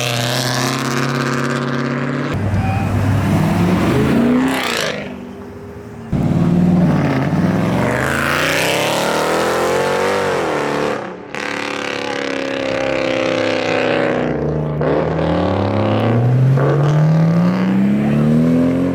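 Performance cars accelerating hard one after another as they leave, engines revving up and passing by, in several short stretches joined by abrupt cuts. Over the last few seconds one engine's pitch climbs steadily under hard acceleration.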